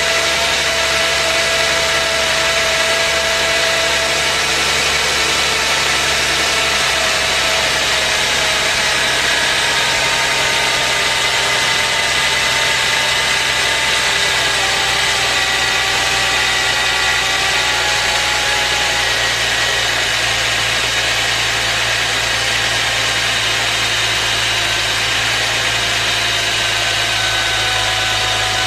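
Subaru Legacy's EZ30R flat-six engine idling steadily with its power steering pump running, several thin whining tones drifting slowly in pitch over the engine hum. This is the pump noise with a rebuilt power steering pump fitted, and the uploader could hardly hear a difference from the old pump.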